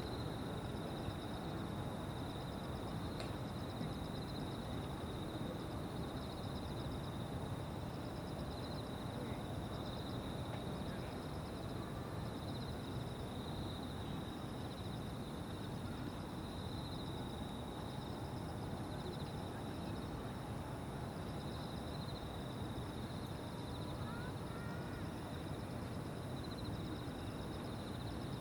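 An evening insect chorus: several insects singing steadily at high pitch, one of them in a rapid pulsing trill, over a low steady rumble of distant background noise.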